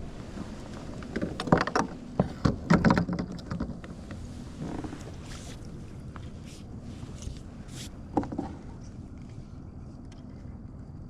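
Knocks and clatter aboard a Hobie fishing kayak, in a busy cluster from about one to four seconds in and again briefly around eight seconds, over a steady low background noise.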